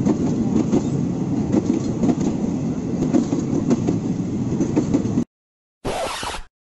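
Train running on rails, a dense rattling noise full of repeated clacks that cuts off abruptly about five seconds in. After a short silence, a brief burst of noise near the end.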